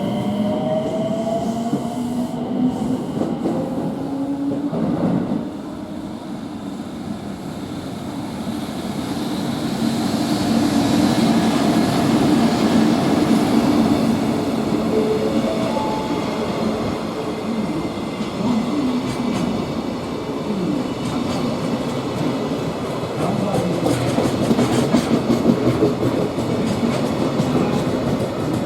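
Freight train passing, its wagons rumbling by. The sound swells about ten seconds in, and steady wheel clatter over rail joints is loudest near the end.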